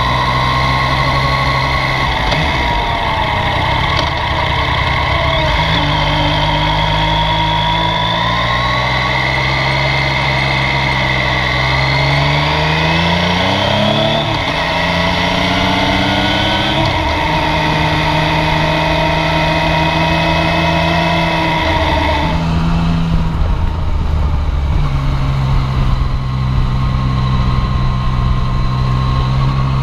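Yamaha Tracer 900's inline three-cylinder engine running under way, its pitch rising and falling as the rider opens the throttle and changes gear, with a clear climb about halfway through. About three-quarters of the way through the higher whine drops away, leaving a steadier, lower engine note.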